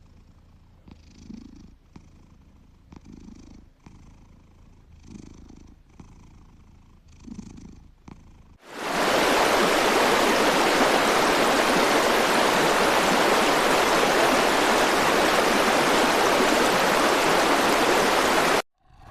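A cat purring softly in slow, rhythmic pulses. About nine seconds in it gives way to a loud, steady rush like falling water, which cuts off suddenly near the end.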